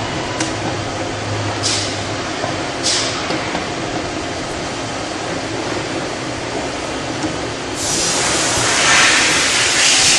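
A sewer inspection camera being pushed through a drain pipe: a steady rumble with brief hissing swishes, then a louder, longer rush of hiss near the end.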